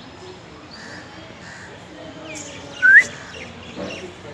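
A single short, loud whistled note sliding upward in pitch, about three seconds in, over steady background noise.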